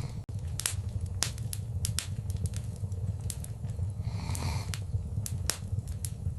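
Wood fire in a fireplace crackling: irregular sharp pops and snaps over a steady low rumble of the flames, with a soft hissing swell about four seconds in.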